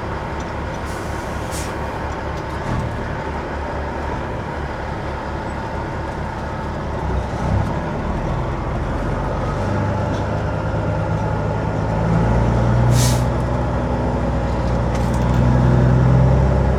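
Peterbilt 379 semi truck's diesel engine idling with a steady low pulse, then pulling harder and louder from about halfway through. A short air hiss comes about three-quarters of the way in.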